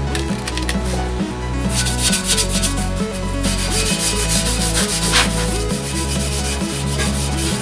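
Rhythmic rubbing strokes of an alloy wheel being scrubbed and hand-sanded, over background music whose bass note changes about once a second.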